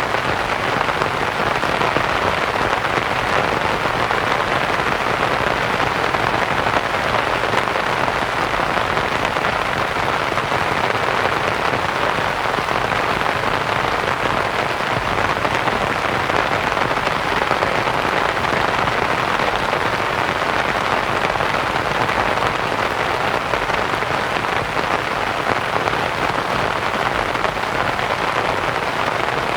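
Steady rain pattering on a canvas tent, blended with soft white noise.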